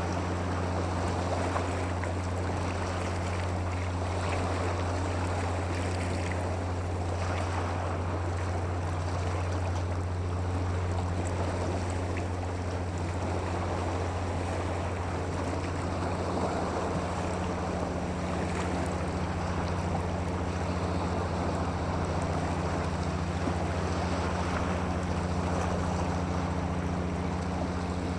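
A constant wash of water and wind over a steady low mechanical hum.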